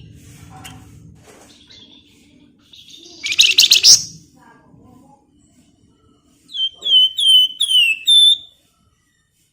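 Flamboyan songbird calling: a loud, rapid rattling trill about three seconds in, then a run of five short whistled notes, each falling in pitch, near the end.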